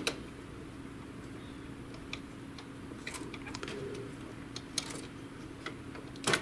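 Faint, scattered plastic clicks and taps from handling printer ink tubes as they are pulled off the ink cartridges, over a steady low hum.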